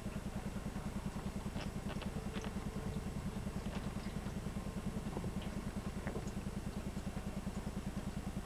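A steady low mechanical hum with a rapid, even pulsing, and a few faint clicks.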